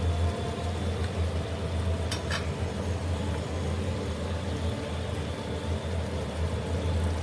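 Chicken and cauliflower curry sizzling in an open pot as its remaining gravy cooks off, over a steady low hum. A couple of short clicks about two seconds in.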